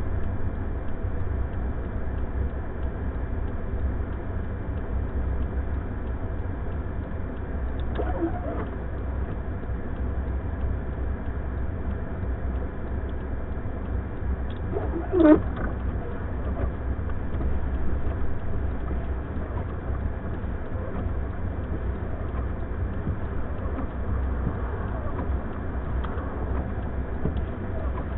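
Steady low rumble of a vehicle with blizzard wind noise. Two short squeaky, bending cries break in, about 8 seconds in and again, louder, about 15 seconds in.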